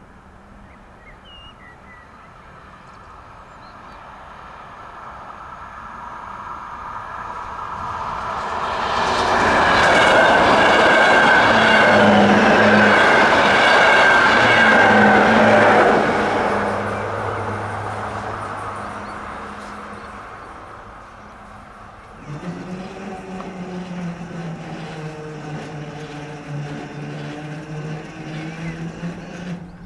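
An electric passenger train passes over a level crossing: its rumble and rail noise build over several seconds, are loudest about ten to sixteen seconds in, then fade away. About three quarters of the way through, a steady low hum with overtones starts abruptly and carries on almost to the end.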